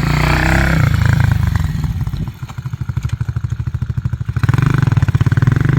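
XPRO Hawk 150cc pit bike's single-cylinder four-stroke engine running, fitted with a NIBBI Racing high-flow air cleaner. It runs loud at first, falls back to a slower, lower putter about two seconds in, then picks up again past the four-second mark.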